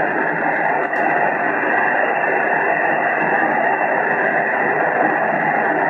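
CB radio receiver hissing with static on an empty channel, squelch open and no station coming back. The noise is steady and muffled, with no high end.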